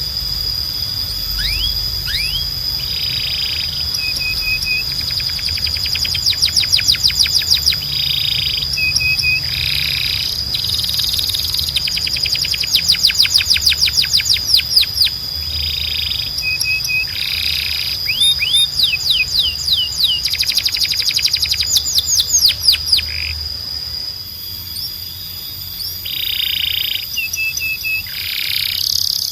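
Domestic canary singing: runs of very fast trilled notes that sweep upward, broken by short repeated lower phrases, over a steady high tone and a low hum.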